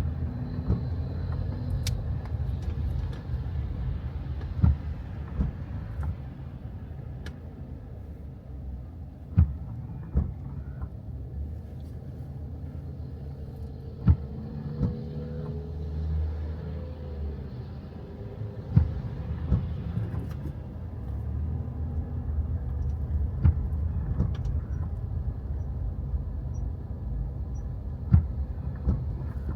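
Car on the move: a steady low rumble of engine and road noise, with scattered sharp knocks every few seconds.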